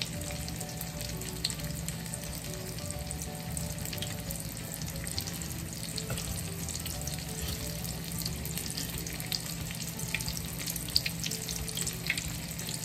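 Breadcrumb-coated chicken breast, just laid in, frying in shallow oil in a pan: a steady sizzle with many small crackling pops.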